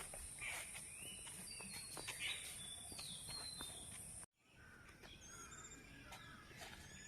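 Faint rural ambience of birds calling with short falling whistled notes over a steady high insect drone, with a few light clicks. A little over half way through it cuts out abruptly and resumes with softer chirps and a steady high-pitched whine.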